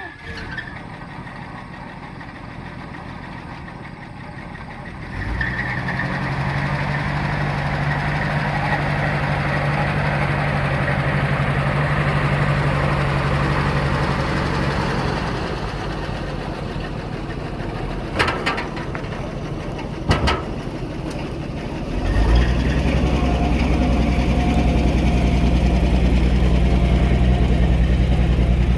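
An old Chevrolet army truck's straight-six engine running. It speeds up about five seconds in, settles back after about fifteen seconds, and speeds up again a few seconds later and holds there. Two sharp clicks come in the middle.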